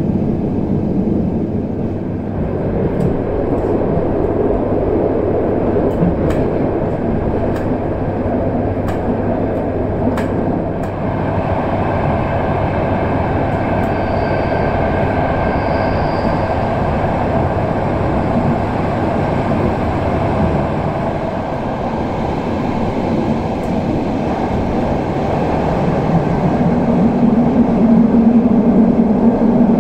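Inside a moving ASEA-built Saltsjöbanan C10 electric train car: the steady running noise of wheels on rail, with a series of sharp clicks over the first ten seconds or so. A low hum grows louder over the last few seconds.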